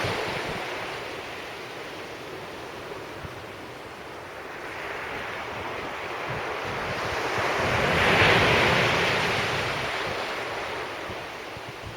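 Sea waves breaking on the beach: the surf fades, then swells to a peak about eight seconds in and washes back. Wind buffets the microphone.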